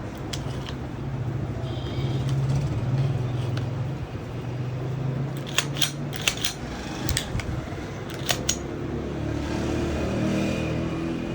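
Sharp metallic clicks of a Glock 19X 9mm pistol being handled, in two quick clusters about halfway through, over a steady low hum.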